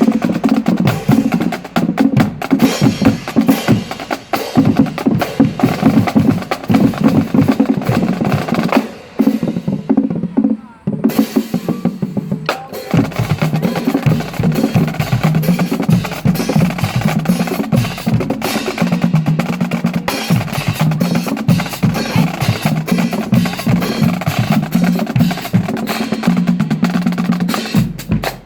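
Marching band drumline playing rapid snare rolls and strokes over pitched drums, breaking off briefly about ten seconds in before starting up again.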